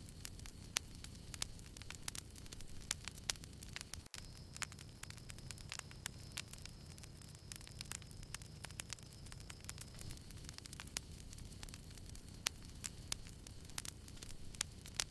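Small campfire crackling: irregular sharp pops and snaps over a low, steady rumble.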